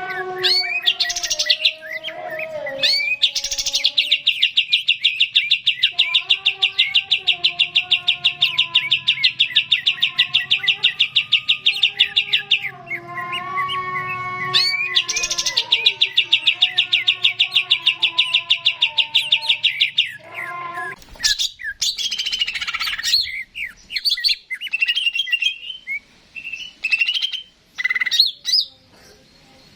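Cucak ijo (green leafbird) singing: two long, rapid, high trills, each several seconds long, over lower whistled notes, then a run of varied short chirps and phrases from about 21 seconds in.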